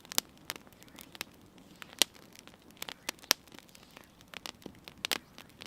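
Sparse, irregular sharp crackles and clicks, a few each second, over a faint background.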